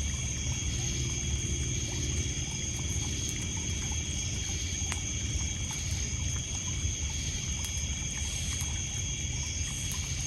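Night chorus of crickets and other insects holding several steady high-pitched trills, over water lapping on a pebble beach. Faint scattered crackles from a wood campfire, one clearer about halfway through.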